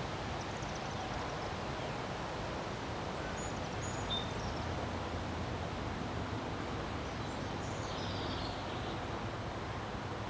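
Wind blowing steadily in a windstorm, a constant rushing noise heaviest in the low end. A few faint, short, high bird chirps come through it.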